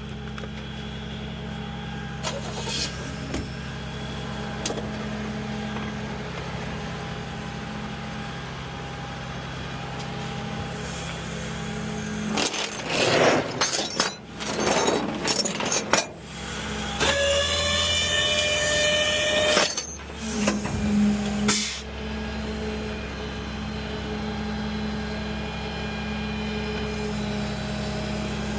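Vehicle engine idling steadily. About twelve seconds in come several seconds of loud, rough noise, followed by a high pitched squeal lasting about two and a half seconds and a few more short noises before the idle settles again.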